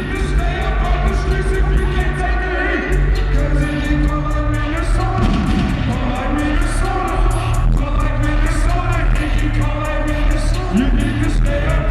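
Live hip-hop concert music over an arena sound system: a heavy, steady bass beat with hi-hats and vocals, the crowd faintly underneath.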